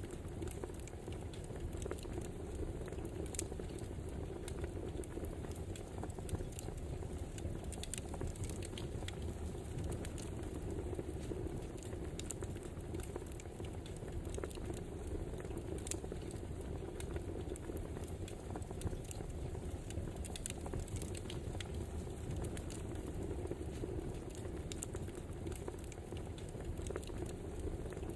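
Wood fire burning: a steady low rush with irregular crackles and pops.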